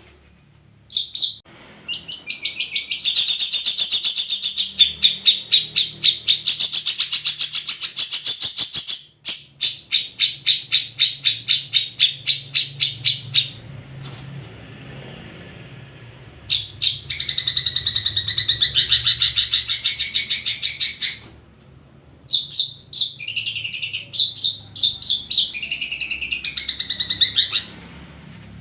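Long-tailed shrike (cendet) singing: long phrases of fast, rapidly repeated high notes, several seconds each, broken by short pauses.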